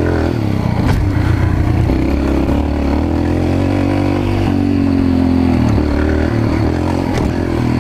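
Mini bike's small engine running under throttle on a rough ride, its pitch rising a few seconds in and then dropping back.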